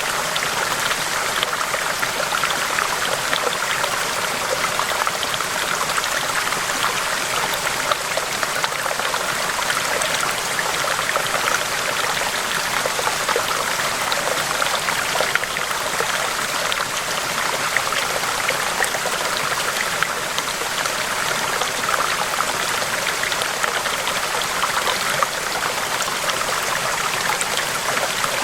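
River water rushing and splashing over rocks in a steady, unbroken flow, with the sound sitting in the mid and upper range rather than a low rumble.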